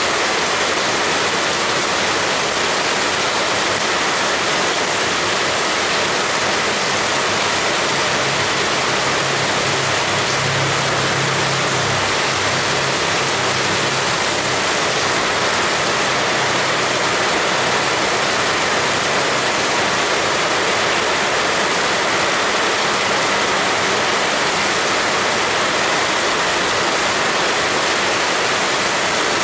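Heavy rain falling steadily, a dense even hiss. A faint low hum comes in about eight seconds in and fades out near the middle.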